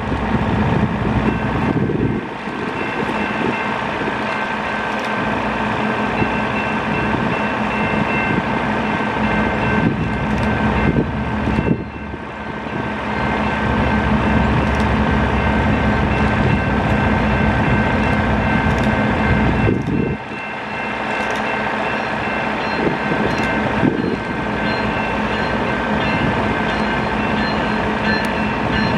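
A GE wide-cab diesel locomotive approaching at the head of a double-stack intermodal freight train, its engine and the train running steadily. Several steady tones sit over a low rumble that drops away briefly a couple of times.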